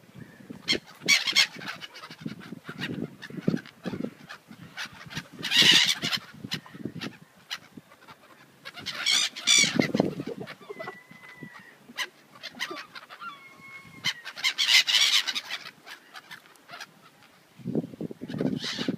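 Gulls calling over and over, several birds squawking at once with loud harsh cries every few seconds, as they gather to be fed.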